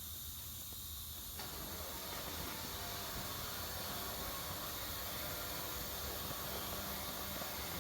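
Steady hiss of background noise with no distinct events, filling out slightly and getting a little louder about a second and a half in.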